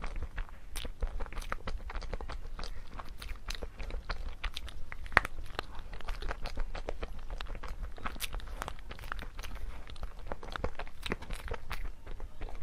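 Close-up chewing of soft layered chocolate cake: a steady run of small wet mouth clicks and squishes, with one sharper click about five seconds in.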